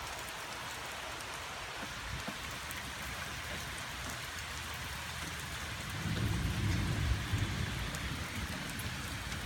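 Steady rain falling, with a low rumble of thunder that rises about six seconds in and fades after a couple of seconds.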